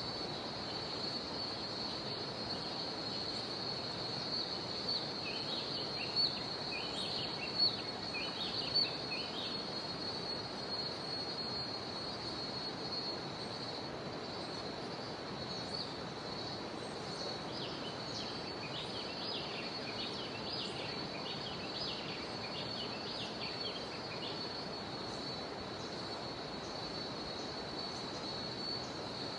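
Cicadas droning in one steady high-pitched tone over the even rush of a jungle river. Two bouts of short, quick chirping calls from other animals break in, a few seconds in and again past the middle.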